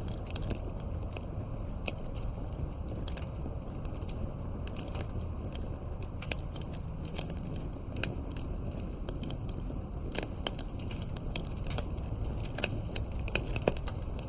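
Wood campfire burning, with steady irregular crackles and pops over a low rumble of flame.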